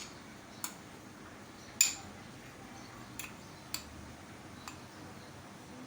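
About five sharp clinks and taps of metal kitchen utensils, spaced irregularly, the loudest nearly two seconds in.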